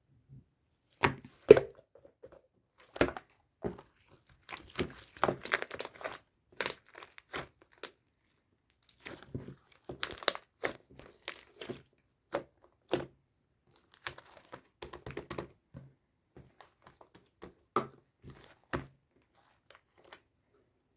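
Slime being worked by hand: irregular sticky crackles, tearing and popping sounds in clusters, with short pauses between them.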